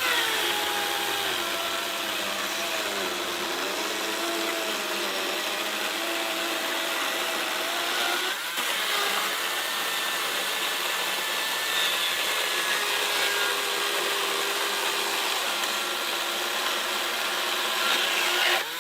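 Makita electric chainsaw cutting through a six-inch lodgepole pine log: a steady motor whine that drops in pitch as the chain bogs down in the wood, with a short break about eight seconds in between cuts. The saw stops near the end.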